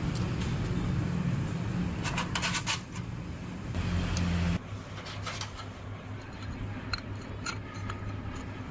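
Metal tools clinking and tapping on metal parts over a steady low engine hum. The hum drops away about halfway through.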